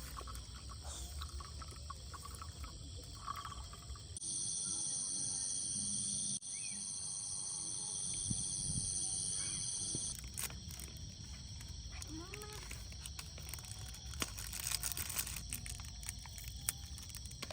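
Night-time insect chorus: crickets and other insects trilling in steady high tones, louder for about six seconds in the middle and cutting in and out abruptly. Scattered sharp clicks sound over it.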